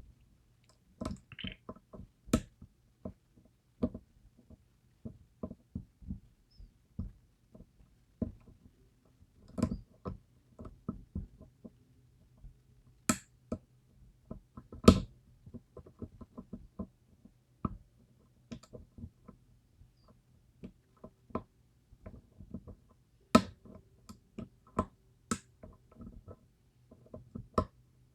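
Irregular short clicks and taps of a lock pick and tension tool working the pins of a DOM IX Twinstar lock during picking, a few each second at uneven spacing, the loudest about fifteen seconds in.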